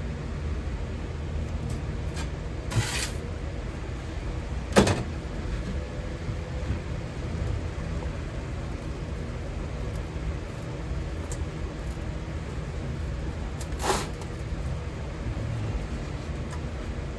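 A steady low rumble, with three short knocks and scrapes from handling at a metal-casting station. The sharpest knock comes about five seconds in.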